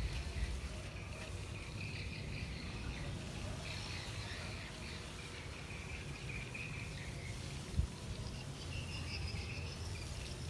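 Insects chirping in high-pitched, uneven bands over a low rumble, with one brief thump near the end.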